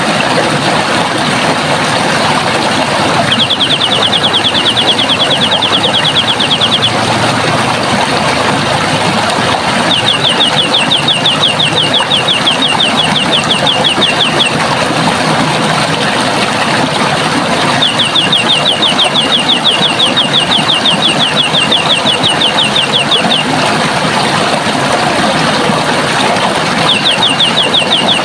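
Steady rush of running water, with a bird giving a high, rapid trill of repeated notes lasting a few seconds, about every seven to eight seconds.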